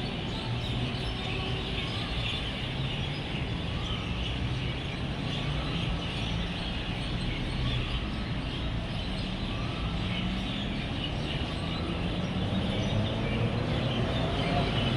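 Dense chorus of many birds chirping together at an evening roost, over the steady hum of road traffic with vehicle engines passing; the traffic grows louder near the end.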